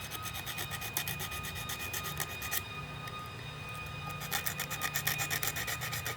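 Sandpaper rubbed in quick back-and-forth strokes against the corroded metal contacts of a small automotive fuse to clean them. The scraping slackens briefly a little before halfway, then picks up again.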